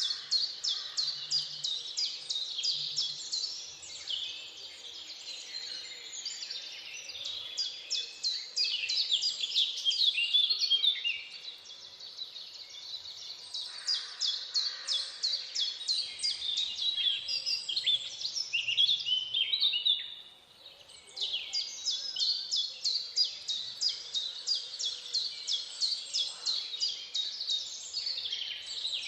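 Many birds chirping and trilling at once in quick repeated notes, with a brief lull about two-thirds of the way through before the chorus resumes.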